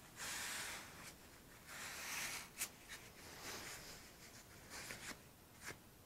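Short bursts of scraping and rubbing with a sharp click and a few light ticks: hand work on a foam wing core and its plywood mounting block.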